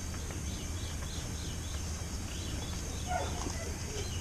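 Outdoor bird calls: short high chirps repeating several times a second over a steady low rumble, with a louder, lower call about three seconds in.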